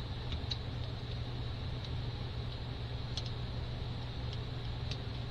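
Small plastic building-brick parts clicking faintly as a leaf, ball socket and ball joint are handled and snapped together, a light tick every second or so over a steady low hum.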